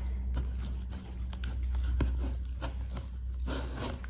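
Crispy fried chicken crackling and clicking as it is handled close to the microphone: many short, sharp crackles over a steady low hum.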